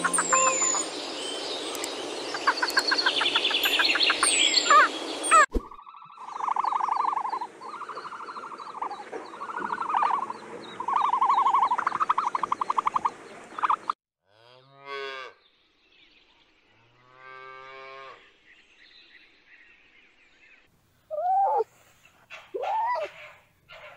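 A string of different animal calls, one clip after another. First come dense, overlapping bird calls for about five seconds, then about six drawn-out calls that pulse rapidly, then a few scattered calls with quiet gaps between them, and three short, arching yelps near the end.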